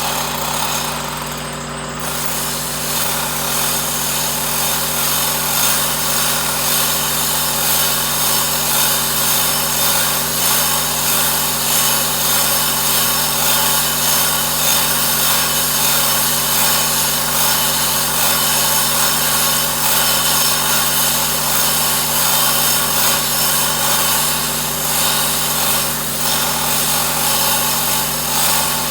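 A power tool running continuously over a steady low machine hum.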